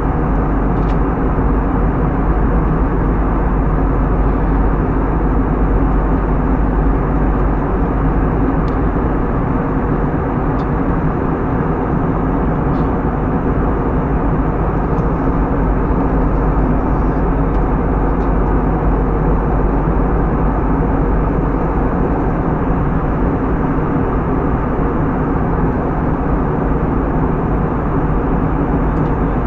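Steady, loud jet engine noise heard inside an airliner's cabin.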